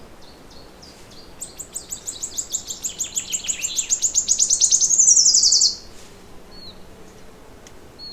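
A songbird sings one long, rapid trill of high notes for about four seconds, growing louder and ending in a quick downward sweep before it cuts off suddenly. A few faint short chirps come before and after it.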